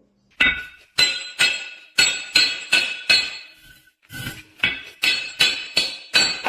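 A hammer striking metal again and again, about two to three blows a second, each blow ringing at the same metallic pitch, with a brief pause a little past the middle.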